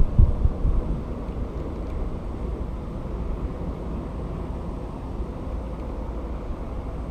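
Low, uneven rumble of wind buffeting the microphone, gusting harder in the first second and then settling to a steady level.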